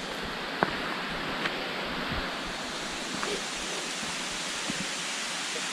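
Steady rushing of a waterfall, an even hiss, with a few small clicks and knocks.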